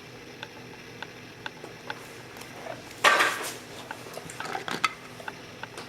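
Hard items being handled on a surface: a few light ticks and taps, then a louder rattling clatter about three seconds in, followed by a quick cluster of small knocks.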